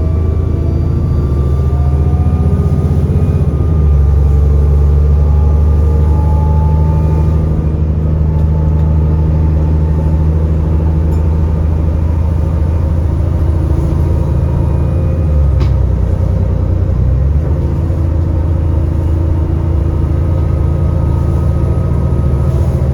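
Alexander Dennis Enviro400 double-decker bus engine running under way, with a thin turbo whistle above the drone. The engine pitch drops about four seconds in and dips and recovers again around the sixteen-second mark as the automatic gearbox shifts.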